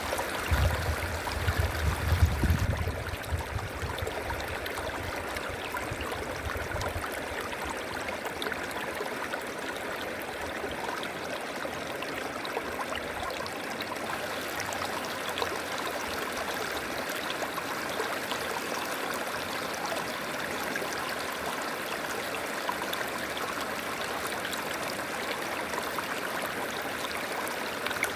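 A river flowing steadily, a continuous rushing and trickling of water. For the first three seconds or so a low rumble rises above it and then fades.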